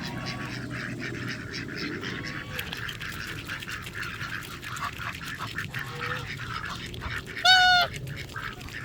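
A flock of ducks and geese crowding close to be hand-fed, with many small clicks and soft low calls, then one loud honk about seven and a half seconds in.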